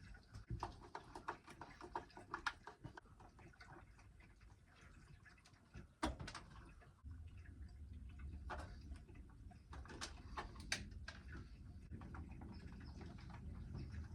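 Faint scattered clicks and taps of hands working electrical wires and twist-on wire nuts, with a sharper click about six seconds in. A low steady hum starts about seven seconds in.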